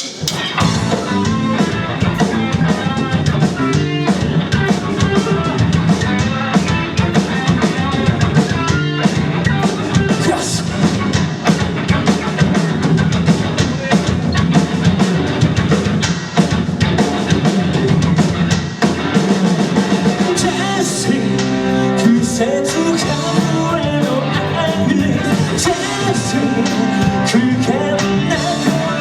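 Live rock band playing a song, with drum kit and electric guitar over bass.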